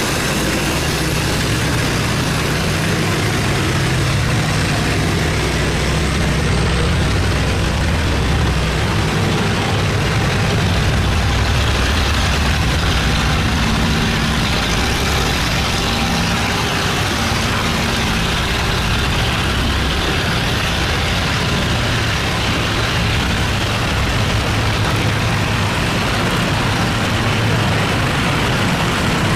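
Boat engines running steadily, a continuous low hum under a steady wash of noise.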